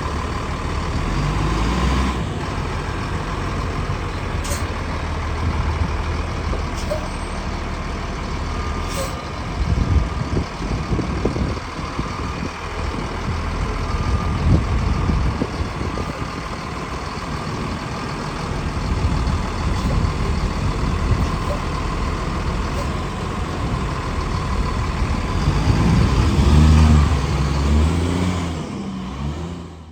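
A 2005 Blue Bird BB Conventional school bus's diesel engine running steadily, with a few short sharp clicks. The engine gets louder and its pitch shifts near the end.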